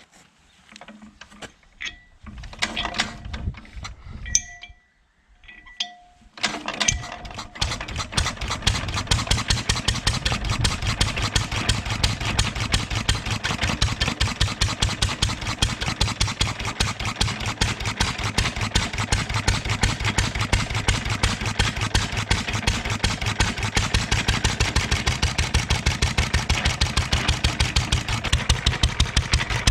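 Single-cylinder 1.5 hp International LA engine being turned over in a few short, uneven spurts, then catching about six seconds in and running on with a steady, even beat of firing strokes.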